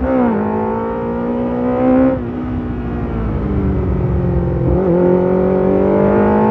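Motorcycle engine pulling through the gears: its pitch drops sharply at an upshift at the start and again about two seconds in, then climbs slowly, with a brief dip near five seconds.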